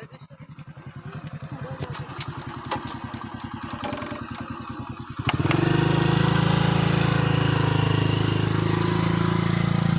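A small engine puttering with an even pulse, growing louder, then jumping to a much louder, steady running note about five seconds in.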